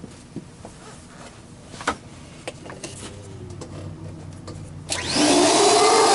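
Light clicks and knocks of parts being handled, then about five seconds in a vacuum cleaner motor switches on and runs loud and steady, a rushing hiss with a steady whine.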